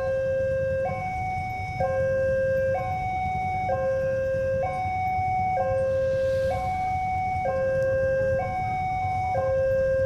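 Railway level-crossing warning alarm sounding an even two-tone call, a lower and a higher note alternating about once a second, over a steady low rumble.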